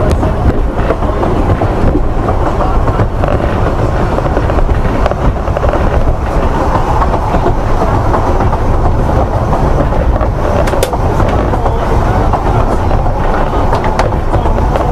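Narrow-gauge railway carriage running along the line, heard from on board: a loud, steady rumble and rattle of wheels on rail, with a few sharp clicks in the last few seconds.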